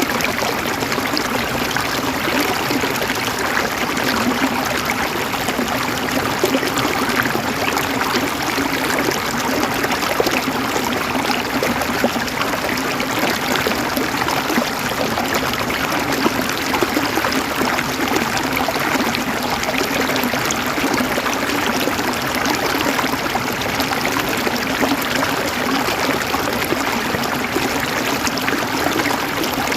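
Water flowing in a stream, a steady rushing and trickling that does not change.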